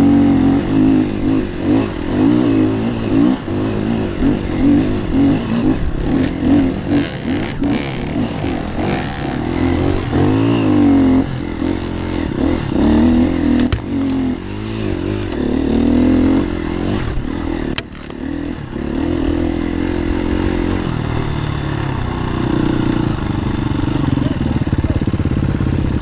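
Enduro dirt bike engine running under load as it is ridden, its pitch rising and falling constantly with the throttle.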